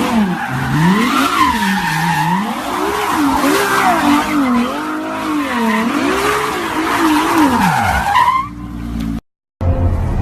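Car engine revving up and dropping back again and again while the tyres squeal, as in a burnout or drift. Near the end it cuts off, and after a brief gap a steadier engine sound follows.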